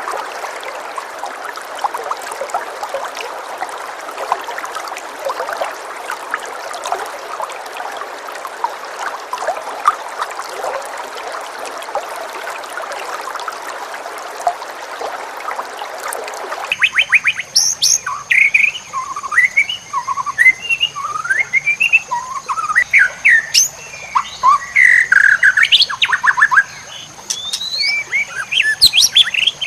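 Dense chatter of many birds calling at once, which cuts off abruptly about 17 seconds in. A white-rumped shama then sings loud whistled phrases that swoop up and down, over a steady high-pitched tone.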